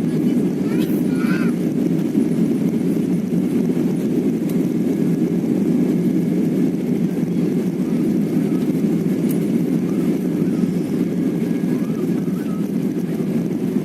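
Airliner engines and airflow heard inside the passenger cabin: a steady, loud, low rumble that holds even throughout.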